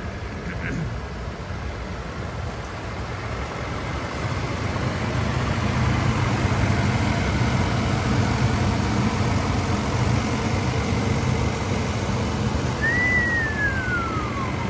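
1990 Cadillac Brougham's 5.7-litre V8 idling steadily, growing louder from about four seconds in. Near the end a single thin whistle rises briefly, then falls.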